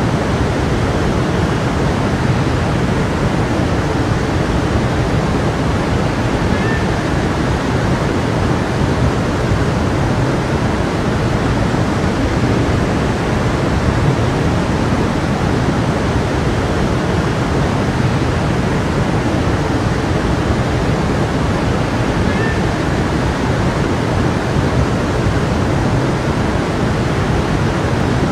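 A flowing stream, water rushing steadily over rocks.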